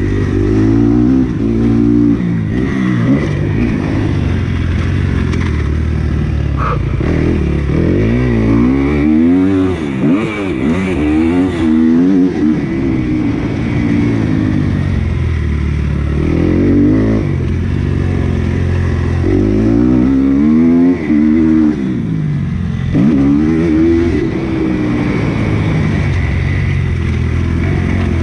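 Motocross bike engine being ridden hard, its pitch rising and falling over and over as the throttle is opened and closed and it shifts through the gears.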